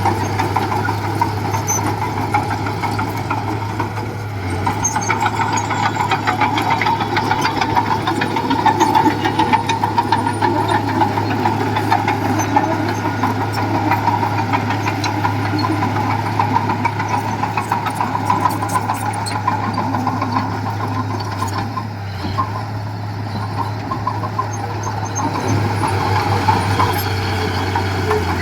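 Diesel engine of heavy earth-moving machinery running steadily under work, its low drone easing off slightly about four seconds in and again around twenty-two seconds in.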